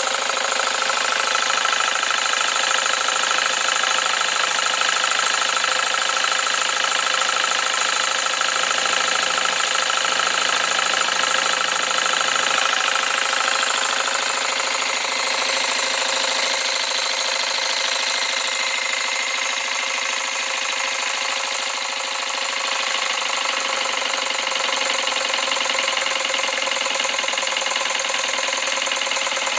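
Jensen 20G model steam engine running fast on live steam: a steady, rapid chatter of exhaust beats and moving parts. Its tone shifts slightly about halfway through.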